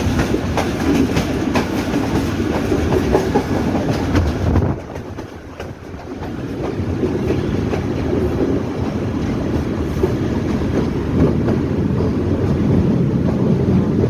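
Passenger train running, its wheels clattering over the rail joints. About five seconds in, the noise drops sharply, then builds back up over a couple of seconds.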